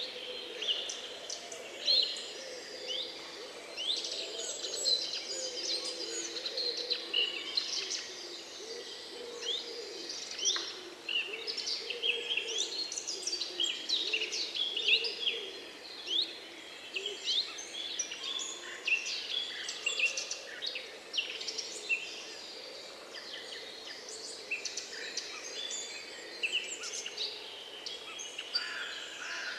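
Many wild birds singing and chirping together: a dense chorus of quick, high, overlapping notes that runs on without a break.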